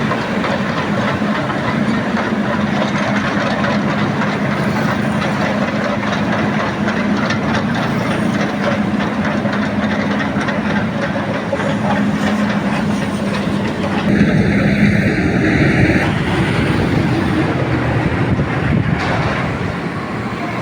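Heavy-equipment diesel engine running steadily as a low hum under a loud, continuous rush of fast-flowing river water.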